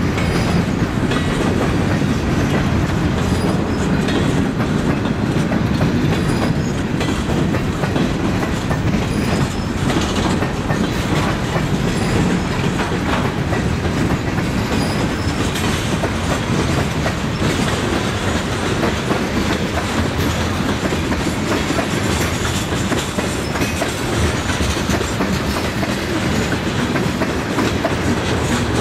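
Freight train cars rolling past: a steady rumble of steel wheels on the rails, with a clickety-clack as the wheels cross the rail joints.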